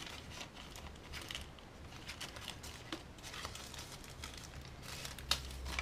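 Small plastic packaging rustling and crinkling as it is handled, with scattered light scrapes and a couple of sharper clicks near the end.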